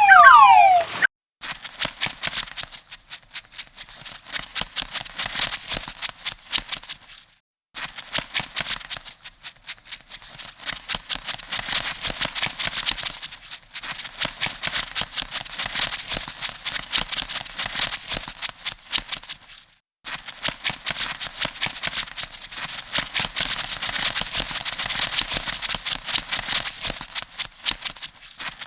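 Crab sound effect: rapid, dense clicking and rattling, like scuttling claws, in long runs broken by brief pauses. A loud warbling electronic tone, falling over and over, cuts off about a second in.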